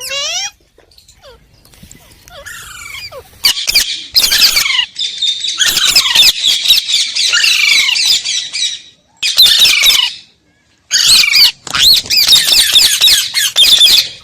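Green parrot calling: after a few quiet seconds, long runs of loud, high, rapidly warbling squawks and chatter, broken by a short silence about two-thirds of the way through.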